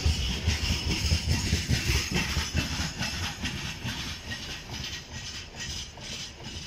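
Wheels of a freight train's open gondola wagons clattering over the rails as the end of the train passes and draws away, the rumble fading from about three seconds in.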